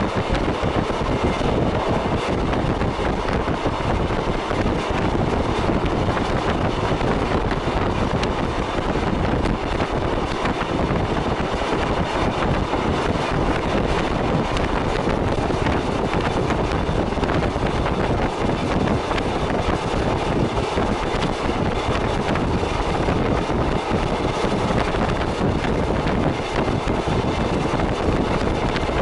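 Kotoden 300, a 1926 electric railcar with nose-suspended traction motors, running at speed over long welded rail, giving a steady running noise with wind on the microphone.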